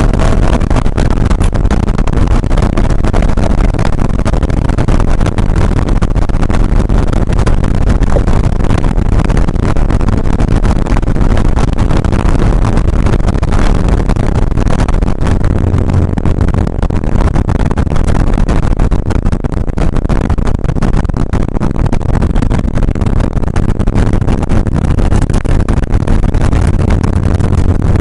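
1981 Porsche 911SC's air-cooled 3.0-litre flat-six running hard at speed, heard inside the cabin with heavy road and wind noise, loud and steady. The low engine note comes up stronger for stretches in the second half.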